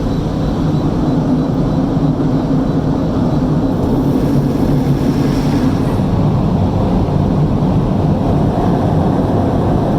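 Automatic car wash equipment running, heard from inside the vehicle: a loud, steady rush of noise with a low hum.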